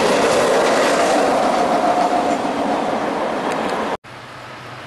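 Freight train flatcars rolling past on steel rails, a loud steady rumble of wheels with a thin squeal for about a second, easing off as the last cars go by. The sound cuts off sharply about four seconds in, leaving a much quieter low hum.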